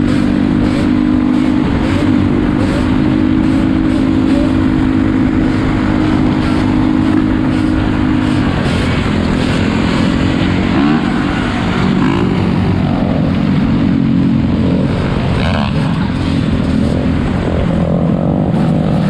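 Four-wheeler (ATV) engines running, a steady drone for the first several seconds, then revving up and down for a few seconds before settling back to a steady run near the end.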